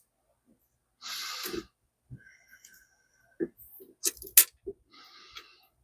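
Small metal clicks and light scraping as screws are worked out of a microscope stage with a screwdriver bit, with a short breathy hiss about a second in.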